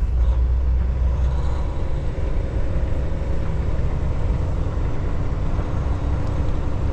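Semi truck's diesel engine running with steady road noise, heard from inside the cab.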